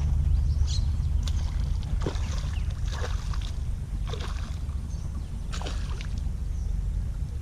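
Steady low rumble with a few faint, scattered ticks.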